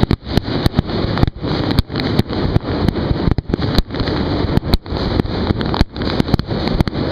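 Aerial fireworks shells bursting in rapid succession, a barrage as in a finale: a continuous rumble broken by many sharp bangs and cracks, several a second.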